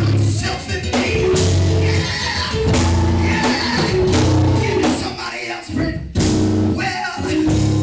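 Live band music with a bass line and guitar, with some singing or voices over it.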